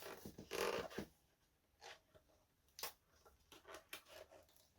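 Trading cards being handled and set down: a brief rustle in the first second, then a few faint scattered clicks and taps.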